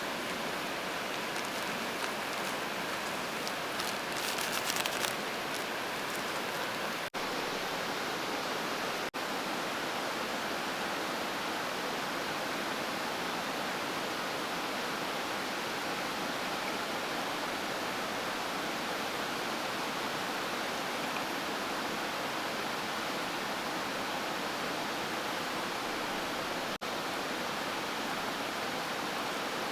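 Steady rush of flowing river water, with a brief louder rustle about four seconds in.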